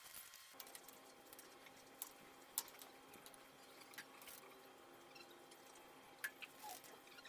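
Near silence with faint room tone, broken by a few short, sharp clicks or taps, the loudest about two and a half seconds in.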